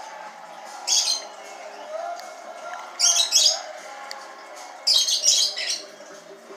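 A small bird chirping in three short bursts of quick, high notes: one about a second in, one around three seconds and a longer one around five seconds.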